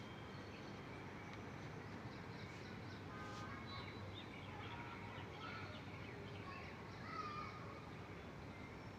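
Birds chirping, a string of short rising and falling calls from about three seconds in until near the end, over a steady background hum of urban noise.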